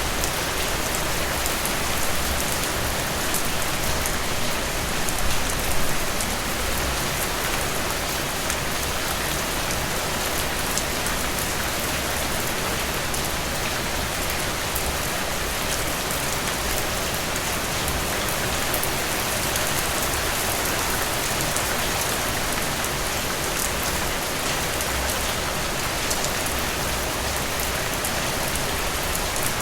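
Heavy rain falling steadily, a dense hiss of drops hitting surfaces with fine individual drop ticks through it. A brief swell in the downpour about five seconds in.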